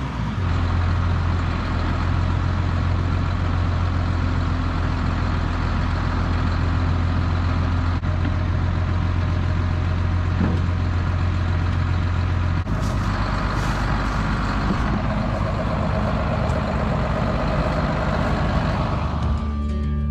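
Diesel tractor engine running steadily with a deep, even hum. About thirteen seconds in the sound changes abruptly to a somewhat different engine note.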